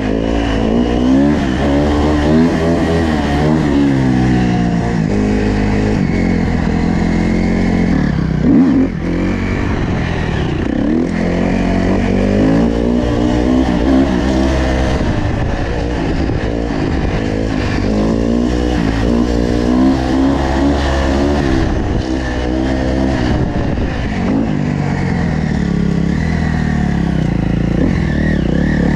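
Dirt bike engines running and revving, their pitch climbing and falling over and over.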